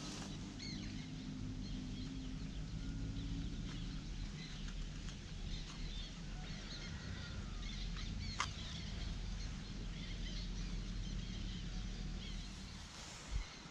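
Birds chirping and calling outdoors over a low steady hum, with a single sharp click about eight seconds in.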